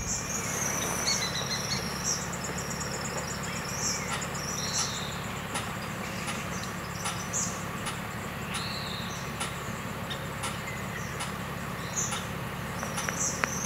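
Outdoor ambience of songbirds chirping, with short arched calls repeating every second or two and a rapid high trill, over a steady low hum.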